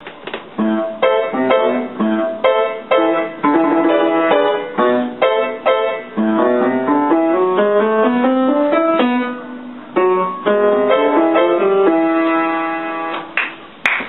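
Piano intro music played as a duet: a tune of struck notes, with a rising run of notes in the middle and a chord held near the end.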